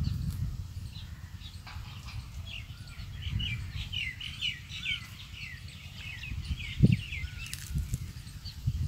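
Birds chirping in a quick series of short falling notes, over a steady low rumble. A single soft knock comes about seven seconds in.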